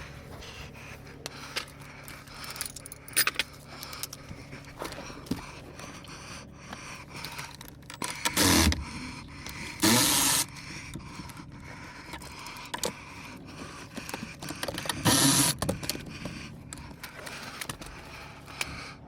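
Metal clinking and rattling, like keys or hand tools being handled, with three louder scraping rattles of about half a second each: two close together a little before the middle and one about three-quarters of the way through.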